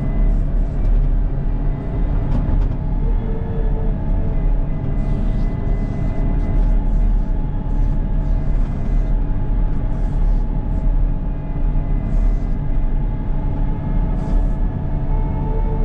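CAT 926M wheel loader's diesel engine running steadily, a constant low rumble with a steady hum of several held tones.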